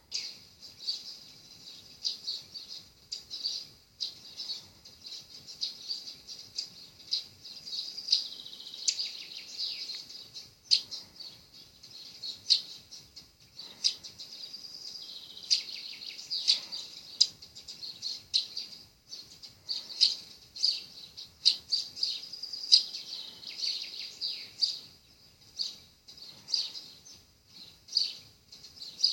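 Birdsong played from a YouTube bird video: a dense stream of quick, high chirps and calls from several birds, with falling trills now and then.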